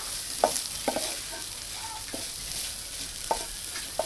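Chicken and onion masala sizzling in a frying pan while it is stirred, a spoon knocking and scraping against the pan several times.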